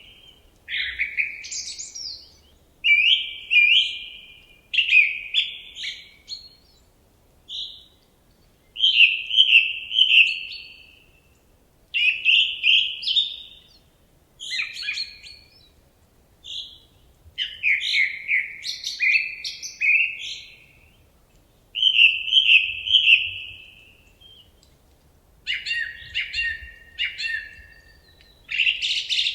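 A songbird singing a series of short, trilled song phrases, each a second or two long, with brief pauses between them.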